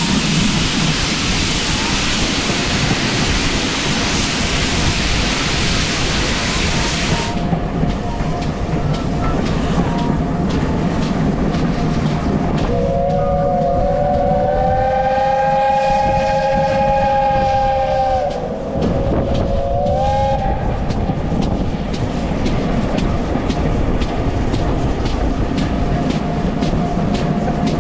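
Train running along the rails. About halfway through, a whistle sounds one long blast of several notes at once, lasting about five seconds, then a short second blast. A loud hiss drops away suddenly about seven seconds in.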